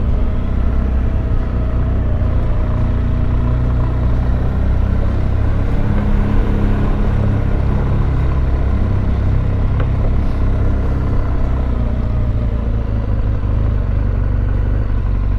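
Motorcycle engine running steadily while riding, almost buried under a heavy low wind rumble on the microphone.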